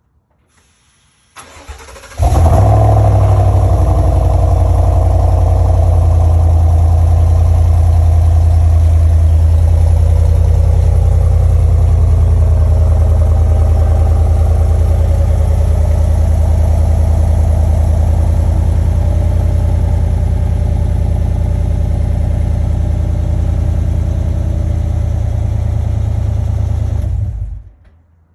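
2021 Cadillac Escalade Platinum engine with its mufflers deleted: the starter cranks about a second and a half in, the engine fires about two seconds in, then it idles loud and steady through the open exhaust until it shuts off near the end.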